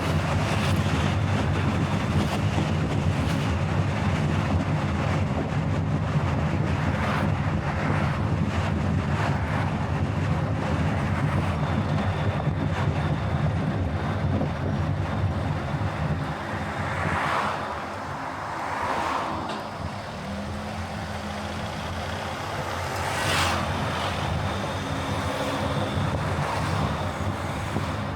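Car driving on the road: steady road, tyre and engine noise with wind, easing slightly past the halfway point, with a few brief swells of louder rushing noise in the second half.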